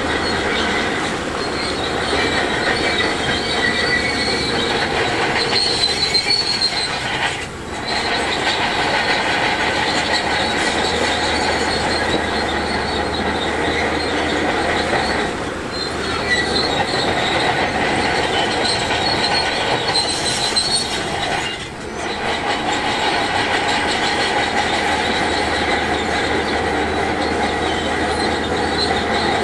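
Shantui DH17C2 crawler bulldozer's steel tracks squealing and clanking as it works, over its steady engine. The loud squeal dips briefly three times.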